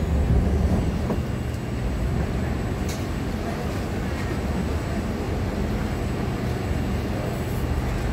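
Kawasaki–Nippon Sharyo C751B electric train at a platform: the doors slide open in the first second, then the train stands with a steady low hum from its onboard equipment. A faint click comes about three seconds in.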